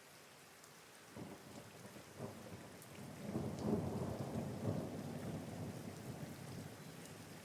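Steady rain with a roll of thunder that starts suddenly about a second in, swells to its loudest around halfway and slowly dies away in a low rumble.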